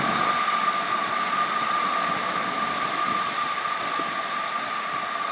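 Class 159 diesel multiple unit pulling away, its sound slowly fading. A steady high-pitched whine runs through it.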